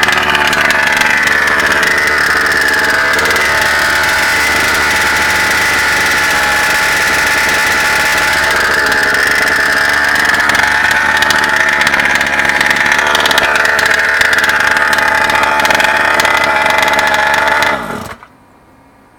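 36cc Rovan two-stroke petrol engine of a Losi 5ive-T 1/5-scale RC truck running at a steady speed, then shutting off about a second before the end.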